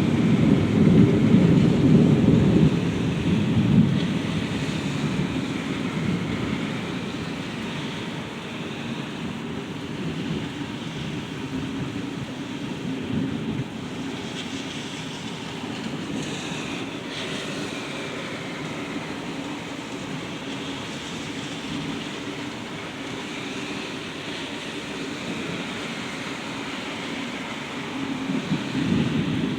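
Thunder rumbling loudly and fading away over the first few seconds, then steady rain through the middle, with another low roll of thunder building near the end.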